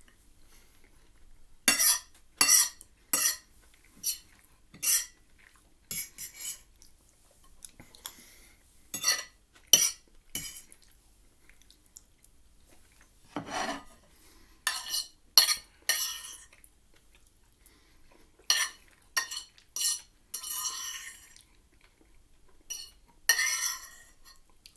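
Cutlery scraping and clinking on a plate in short, irregular strokes, with pauses between them: the last of a meal of chicken tikka masala and rice being scraped up.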